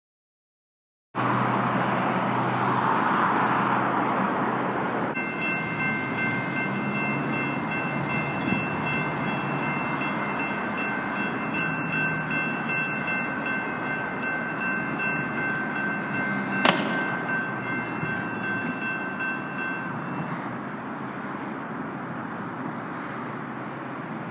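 MAX light rail train passing through a level crossing over a steady rumble of traffic. The crossing's warning bells ring in a steady repeating pattern from about five seconds in until about twenty seconds, with one sharp clang about two-thirds of the way through.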